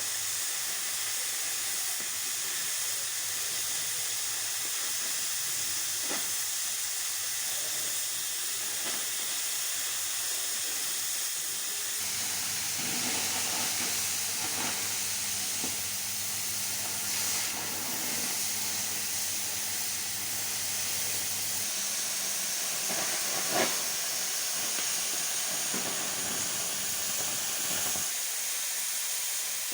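Oxy-fuel cutting torch hissing steadily as it cuts a bevel edge into metal, with a couple of short pops.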